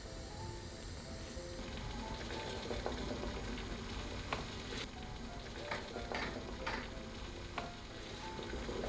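Food sizzling in a frying pan, with a utensil clicking against the pan now and then as it is stirred.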